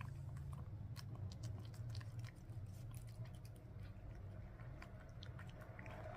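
A cat chewing melon: a quick, irregular run of small clicks from its mouth over a steady low hum.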